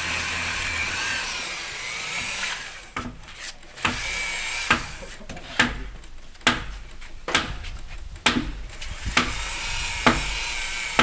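A power drill runs steadily with a wavering whine for about two and a half seconds, then a hammer strikes about once a second, driving wooden pegs into the timber-frame joints.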